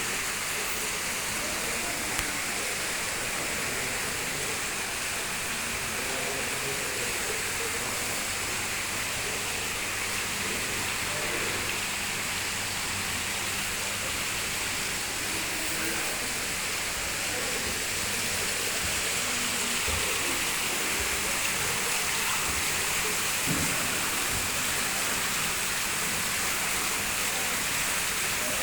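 Steady rush of falling water, with faint voices in the background.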